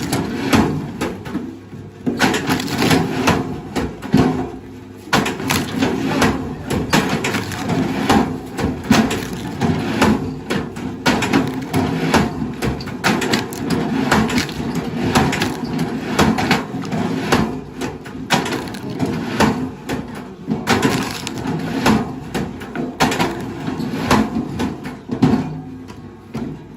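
Wood cracking and splintering in a dense, irregular series of sharp snaps, as heavy machinery crushes and breaks up wood, over a steady low engine hum.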